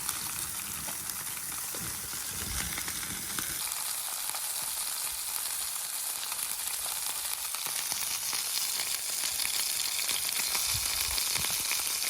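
Homemade burgers frying over a campfire: a steady sizzle with fine crackles throughout.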